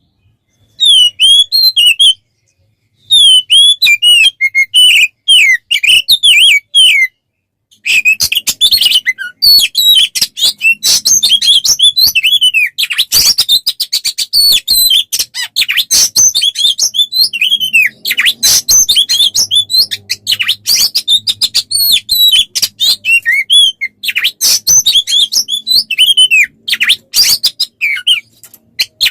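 A songbird singing a fast, varied song of chirps and whistles, typical of the tutor song played to train kacer (oriental magpie-robins). It has two short breaks early on, then runs into a dense stream of rapid chirps and clicking notes from about eight seconds in.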